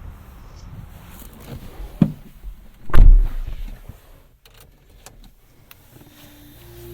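Car door of a Renault Mégane being shut: a sharp click about two seconds in, then a heavy thump a second later, the loudest sound here. Near the end a few short steady tones begin.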